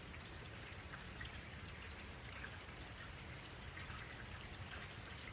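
Rain falling: a faint steady hiss with scattered small drop ticks.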